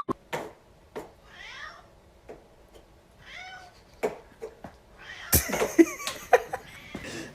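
A domestic cat meowing several times, faint at first and louder from about five seconds in. Scattered sharp clicks and knocks sound between the calls.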